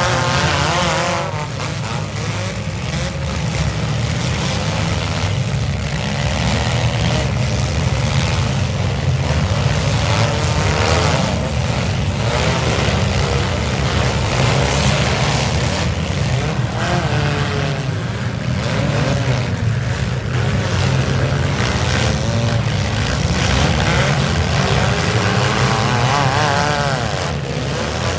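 Several demolition-derby compact-car engines revving hard, rising and falling over and over, with tyres spinning on dirt. A few sharp bangs of cars ramming each other.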